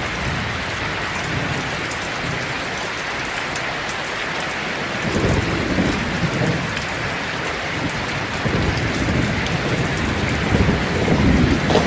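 Steady rainfall hissing, with thunder rumbling low from about five seconds in and growing toward the end.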